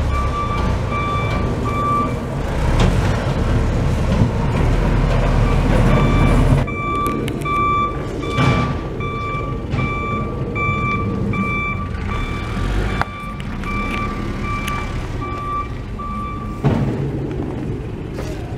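Reversing alarm of a work truck backing up, beeping about twice a second over its running diesel engine. The beeping pauses a couple of seconds in, resumes about halfway and stops shortly before the end.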